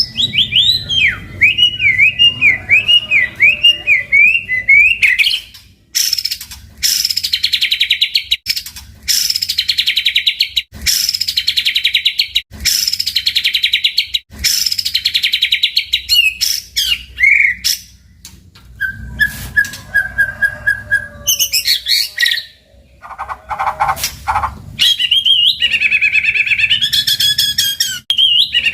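White-rumped shama singing a loud, varied song. It opens with a rapid run of rising and falling whistled notes, moves into a string of harsh, buzzy phrases about a second each with short gaps, then gives a held whistle and more varied phrases near the end.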